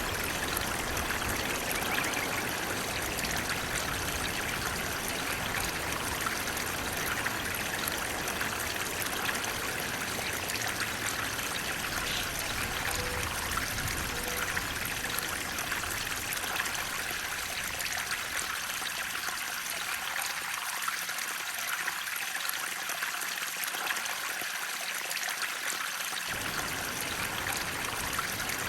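Flowing water making a steady rushing, trickling sound. Its low rumble drops away for several seconds past the middle, then returns.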